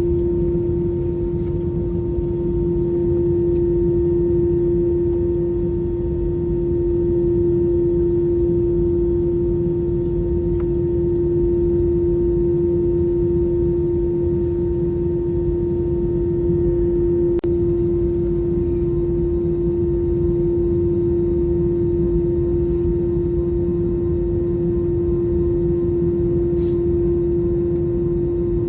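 Airbus A321 cabin noise during taxi, its CFM56 engines at idle: a steady hum with one strong unchanging mid-pitched tone over a low rumble.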